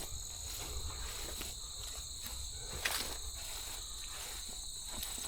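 Steady chorus of crickets trilling in high, even tones, with scattered footsteps and a sharper click about three seconds in.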